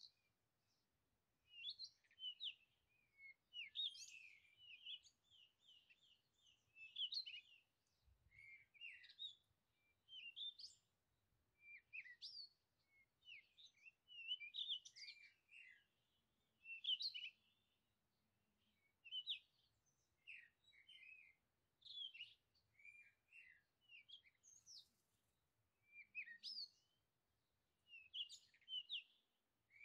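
Songbirds singing in a woodland, with short chirping and warbling phrases coming every second or two.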